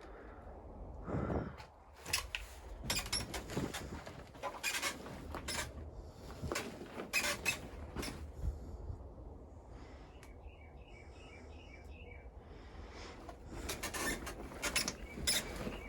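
Irregular clicks and crunches, as of steps and handling in rubble, with a short run of about six quick high chirps a little over ten seconds in.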